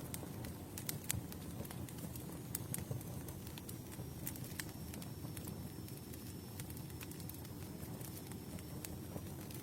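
Campfire burning: wood crackling with irregular sharp pops over a low, steady rumble of flame.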